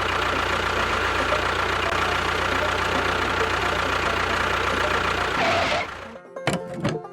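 A motor or engine running steadily with a constant hum, cutting off suddenly about six seconds in as banjo music starts.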